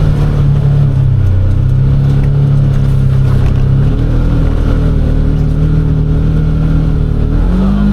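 Side-by-side UTV engine running under load while driving in snow, its speed dipping about a second in and then climbing in steps toward the end.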